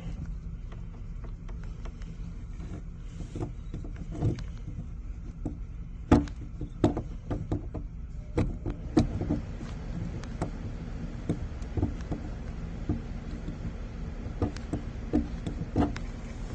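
A steady low mechanical hum, with scattered light taps and clicks as a plastic welding iron works filler over a crack in a polyethylene ballast tank.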